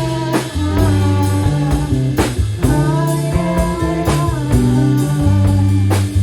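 A rock band playing: electric guitar with bending notes over bass and a drum kit.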